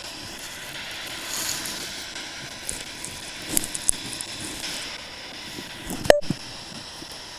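Footsteps and rustling of people walking along a wooded trail, with crackling clicks now and then and one sharp click about six seconds in where the sound briefly cuts out.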